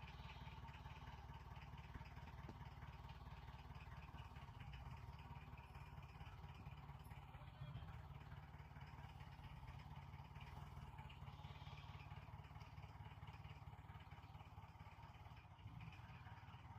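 Faint, steady running of the restored jeep's engine.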